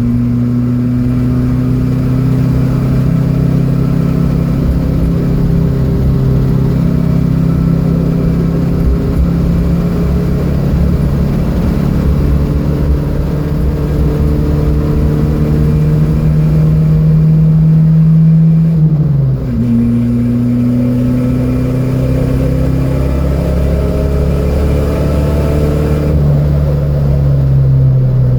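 Datsun B210's four-cylinder engine pulling hard under load, its pitch climbing slowly as the car gains speed. It drops suddenly at a gear change about two-thirds of the way in, climbs again, and falls once more near the end.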